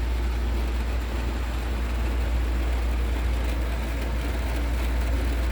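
Steady low hum of a van's air conditioner running, over the even hiss of heavy rain falling on and around the van.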